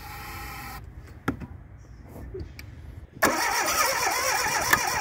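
Fiat 127's engine being cranked over by the starter, loud and uneven, trying to catch, beginning about three seconds in. A short hiss and a single click come before it.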